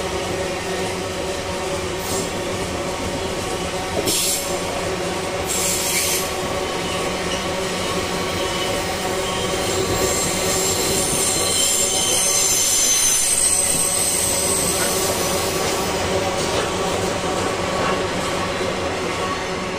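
Freight train rolling past on the rails, with a steady rumble and a high-pitched wheel squeal that is strongest around the middle. A few sharp clicks come about two seconds apart in the first half.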